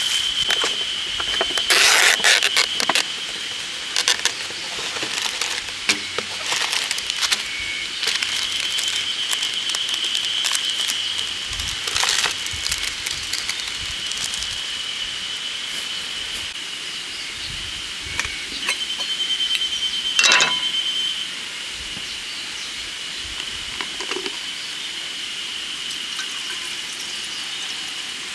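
A chorus of spring cicadas (haruzemi) shrilling steadily, one sounding louder for a couple of seconds past the middle. Scattered sharp clicks and knocks come over it now and then.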